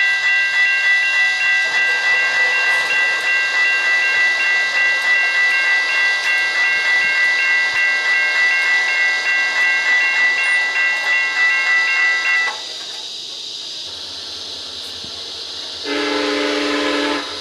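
Railroad crossing bell ringing rapidly, about three strikes a second, then stopping about twelve seconds in. A low rumble follows, and near the end a train horn sounds one short blast, about a second and a half long, from an approaching SunRail commuter train.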